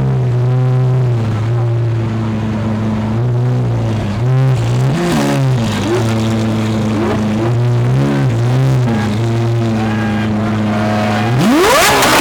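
Lamborghini engine running slowly with a few short throttle blips, then a hard rev near the end, its pitch rising steeply as the car accelerates away.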